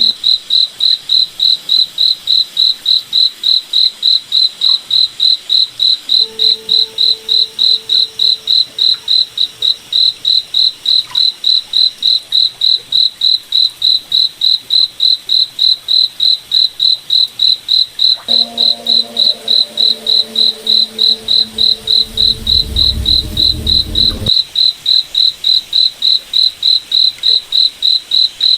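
Crickets chirping in a steady, even rhythm, high-pitched at about three chirps a second. Fainter low humming tones come in twice, the second time with a low rumble that cuts off suddenly about three-quarters of the way through.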